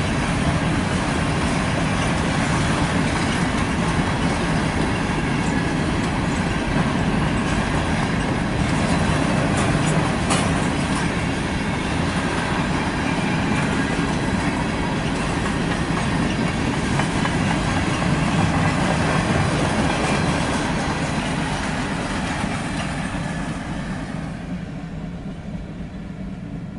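Freight cars of a CSX manifest train, mostly covered hoppers, rolling past at speed: a steady rumble and rattle of wheels on rail, with a single sharp clank about ten seconds in. The sound fades over the last few seconds.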